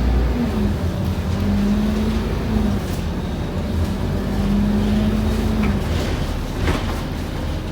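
Scania N230UD OmniCity double-decker bus running under load, heard from on board, with a steady engine rumble and a whine that climbs and breaks off at each gear change, about three times. Near the end the whine fades and a short knock or rattle is heard.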